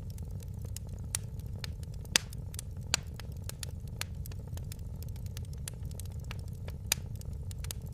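Wood fire burning in a fireplace: a steady low rumble of flames with frequent sharp crackles and pops, a few louder snaps scattered through.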